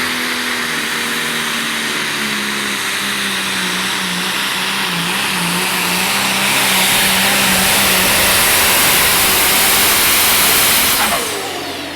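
Super/pro stock pulling tractor's engine running at full throttle under load during a pull, a steady engine note buried in a dense high hiss. It grows louder about six seconds in and drops off sharply near the end as the throttle comes off.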